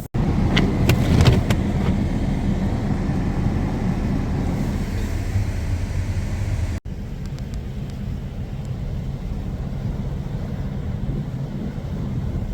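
A car driving: a steady low road and engine rumble. The sound breaks off for an instant twice, near the start and about halfway through, and is a little quieter after the second break.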